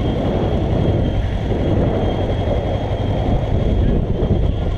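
Kawasaki ER-6n's parallel-twin engine running steadily as the motorcycle is ridden through a bend, mixed with rough wind rush on the camera microphone.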